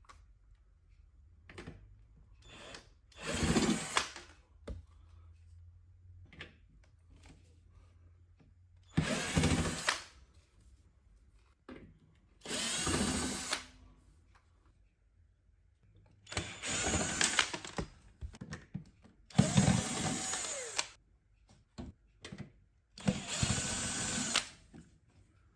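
Cordless drill-driver running a screw in six short bursts of about a second each, its motor pitch rising and falling within each run.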